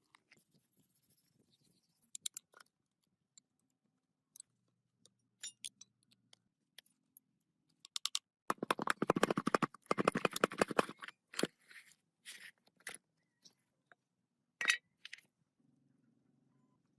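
Scattered sharp metallic clicks and clinks, with a run of rapid clicking about halfway through.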